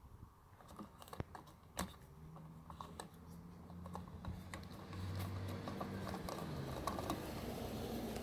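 Light irregular clicks and crackles of a plastic fuel-additive bottle being handled and opened. A low steady hum comes in about two seconds in, and the sound grows louder from about five seconds in.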